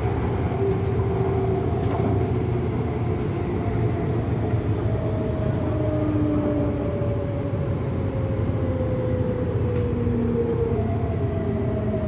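MTR Tung Chung Line CAF train running, heard from inside the car: a steady rumble of wheels on rail with a thin motor whine that slowly falls in pitch.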